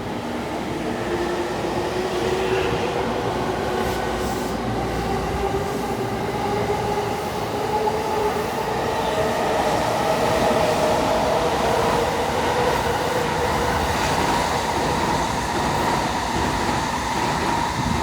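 JR East E217 series electric train pulling away and gathering speed. Its motor whine rises slowly in pitch in several tones, over the rumble of the wheels on the rails.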